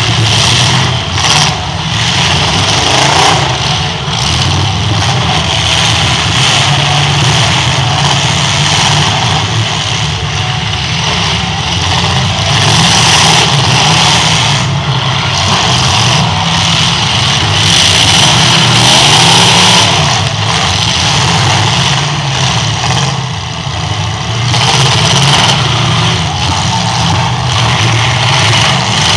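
Several V8 demolition derby cars' engines running and revving together, loud and continuous, with pitch rising and falling as the drivers accelerate.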